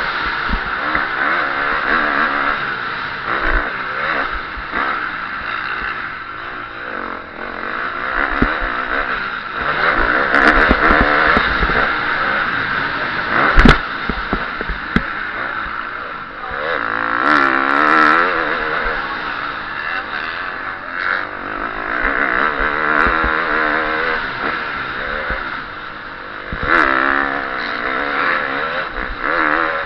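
KTM 350 SX-F four-stroke motocross engine, heard onboard, revving up and down over and over as the bike is ridden around the track, with scattered clattering knocks. A single loud sharp bang comes a little before halfway, the loudest moment.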